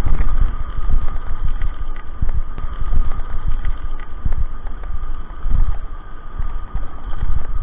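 A bicycle ride picked up by a camera riding along: a loud, continuous low rumble with irregular knocks and jolts.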